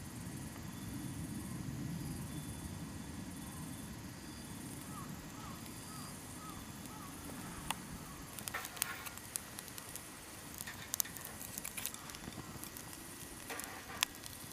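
Charcoal burning in a compact mini fire pit. A soft, even low rush comes first, then from about halfway on there are scattered faint sharp crackles and clicks.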